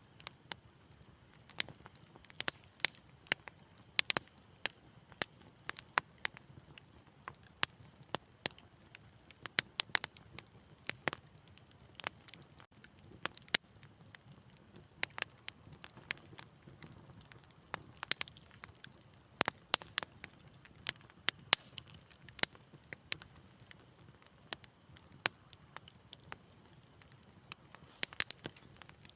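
Wood fire crackling and popping in a fireplace: sharp irregular snaps, several a second, some louder than others, over a faint low rumble of the flames.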